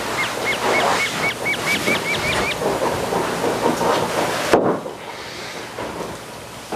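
A bird calling in a quick run of about a dozen short, repeated notes, about five a second, over a noisy rustle, then stopping. A little past halfway the background drops suddenly to a quieter, duller hush.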